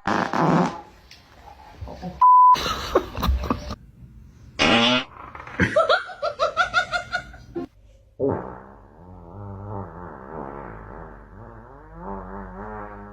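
Several fart sounds one after another, the last a long one that wavers in pitch for several seconds. A short steady beep sounds about two seconds in.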